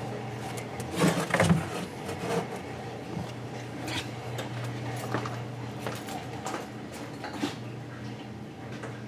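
Scattered light knocks and clatter of objects being moved about, over a steady low hum.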